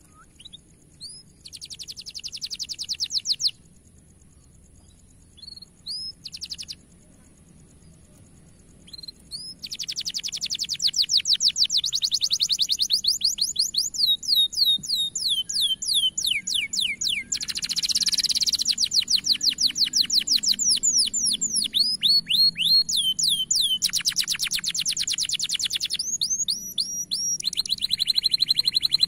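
Domestic canary singing in fast trills of rapidly repeated high notes: a few short phrases with pauses at first, then, about ten seconds in, a long unbroken run of song that moves from one trill phrase to the next.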